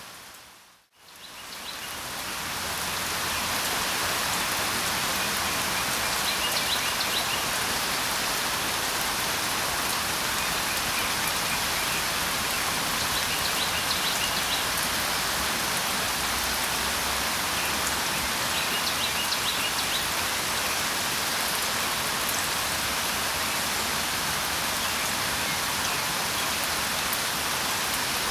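Steady rain falling, fading back in from a brief dip about a second in. A few faint, short high bird chirps come through now and then.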